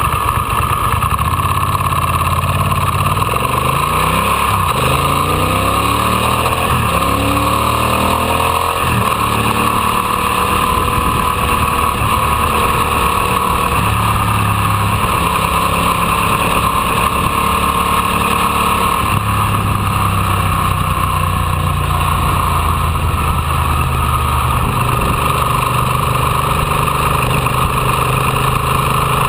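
Ducati Monster 800's air-cooled L-twin engine running while the bike is ridden, its pitch rising and falling several times in the first ten seconds, then holding steadier with occasional steps.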